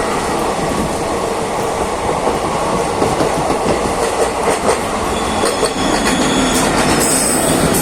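Train running on the rails with a steady, heavy rumble and wheels clacking over rail joints, the clacks clearest midway. Thin high-pitched tones come in near the end.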